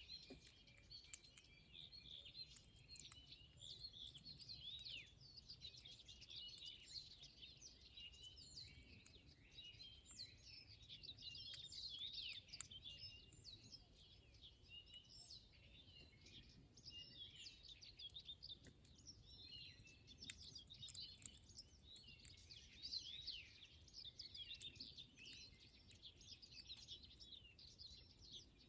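Faint chorus of small birds chirping and twittering, many short overlapping calls with no break.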